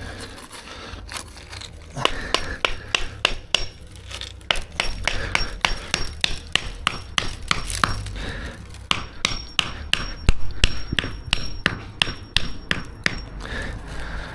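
Hammer striking timber in a rapid, even run of sharp blows, about three a second, starting about two seconds in and stopping shortly before the end.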